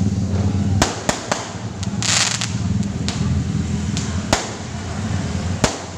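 New Year fireworks going off in sharp separate bangs: three in quick succession about a second in and two more later, with a short hissing burst about two seconds in, over a steady low background rumble.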